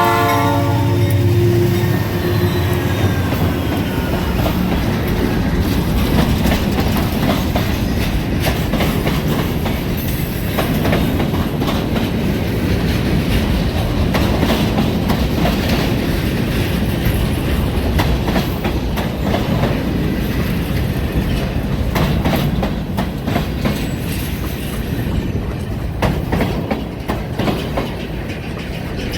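A freight train rolling past, its wheels clicking and rumbling over the rail joints. A diesel locomotive horn chord cuts off about a second in.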